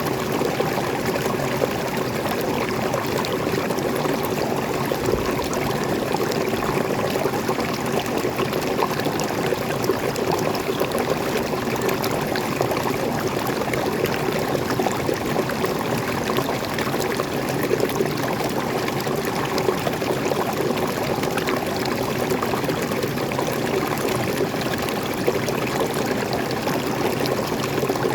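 Small waterfall splashing steadily into a stream, a continuous rush of falling and flowing water with fine splashes.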